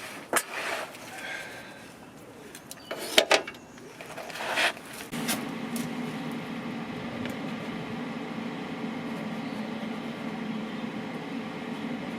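A few knocks and clatters, then about five seconds in a motor starts and runs with a steady, even hum.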